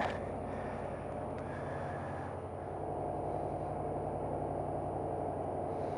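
Yamaha Super Ténéré XT1200Z parallel-twin engine idling steadily while the motorcycle is stopped.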